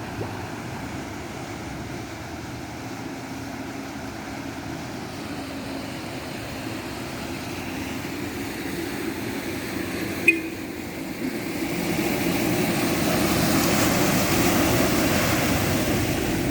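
Road traffic on a flooded street: steady vehicle noise, swelling in the second half as a vehicle comes closer through the water, with one sharp click about ten seconds in.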